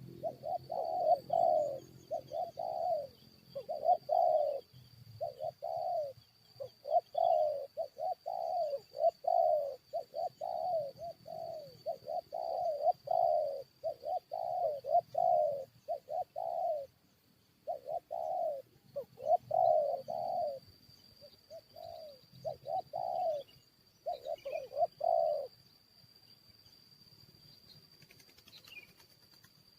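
Spotted doves cooing over and over in quick, closely packed phrases of rolling coos, stopping about 25 seconds in. A steady high-pitched whine runs behind them, and a few faint small-bird chirps come near the end.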